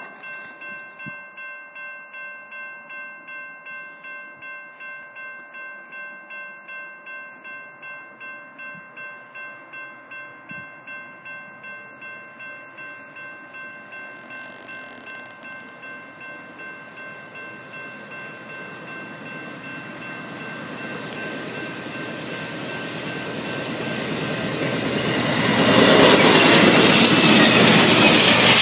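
Grade-crossing bell ringing about twice a second while a diesel freight train approaches, its rumble growing over the last ten seconds. Near the end the lead locomotive, an NS GE Dash-9, passes close by, loud, with wheels rolling on the rails.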